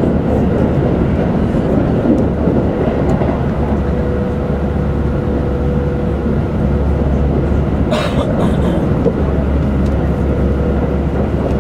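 Keikyū 2100 series electric train heard from inside the carriage while it runs along the line: a steady rumble of wheels on rail. A faint steady whine comes in about four seconds in and fades a few seconds later, and there is a brief higher clatter about eight seconds in.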